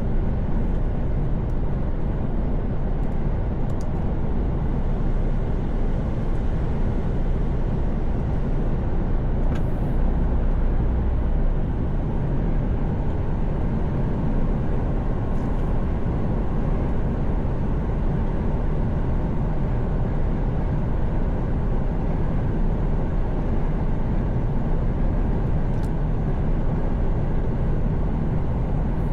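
Mercedes Actros truck cruising at steady highway speed, heard from inside the cab: a constant low engine drone mixed with tyre and road noise. A few faint ticks come through over it.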